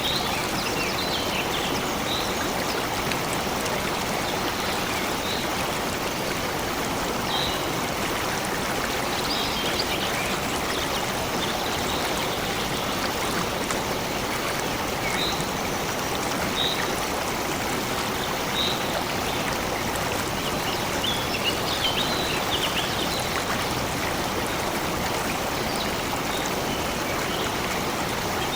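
Stream water flowing steadily, with birds giving short, high chirps now and then, bunched around a third of the way in and again about three quarters through.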